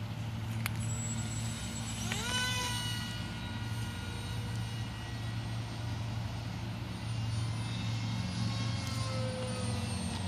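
Hobbyking Mini Breeze RC glider's electric motor and propeller whining: about two seconds in the pitch rises quickly and then holds steady, and near the end it drops slightly. A single click comes just before the motor spins up.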